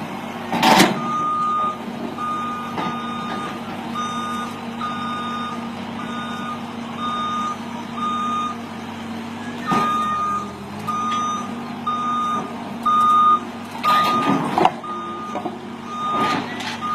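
Truck reversing alarm beeping over and over, roughly two short beeps a second at one pitch, over the steady hum of the truck's engine. A few loud knocks break in, just after the start, about ten seconds in, and twice near the end.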